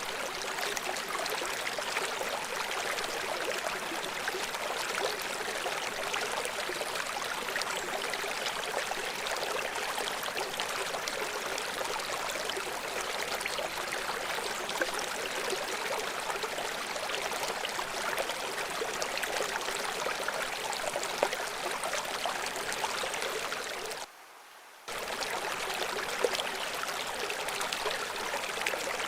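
River water flowing steadily, an even rushing hiss with little bass. The sound drops almost out for about a second near the end, then resumes.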